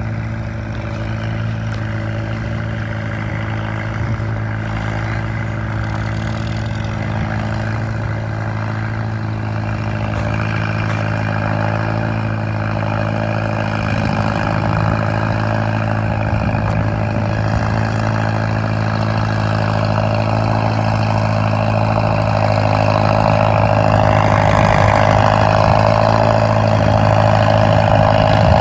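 Tractor engine running at a steady pitch, slowly growing louder, with a higher whine strengthening over the last third.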